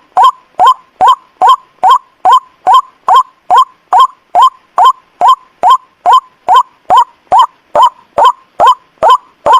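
White-breasted waterhen (ruak-ruak) calling in a fast, even run of short upswept notes, about two and a half a second. It is a recorded lure call played to draw in waterhens.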